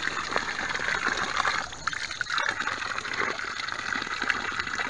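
Water running steadily out of an old spring-fed well pipe, a constant splashing trickle that briefly drops about two seconds in.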